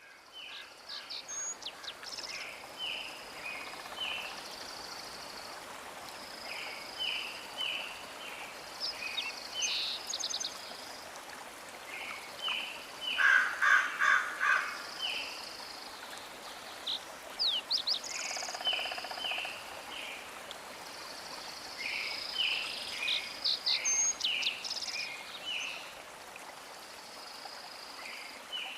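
Birds chirping and singing in many short repeated calls and trills over a steady hiss, with a louder burst of trilling about halfway through.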